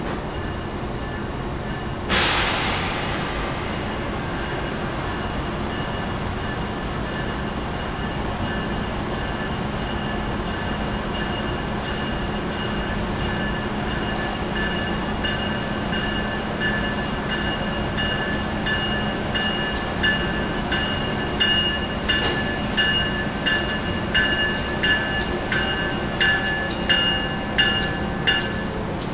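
Railway locomotives standing with a steady low hum. About two seconds in there is a sudden loud hiss of air. From midway on, a locomotive bell rings about once a second, louder toward the end.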